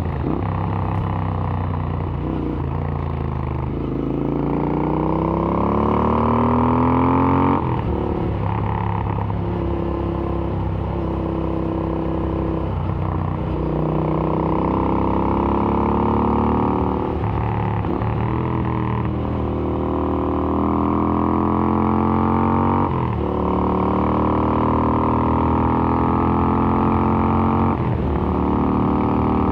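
Royal Enfield Interceptor 650's parallel-twin engine through AEW TE 102 aftermarket exhausts, riding on the road. Engine pitch climbs under throttle and drops back at each gear change or roll-off, several times over.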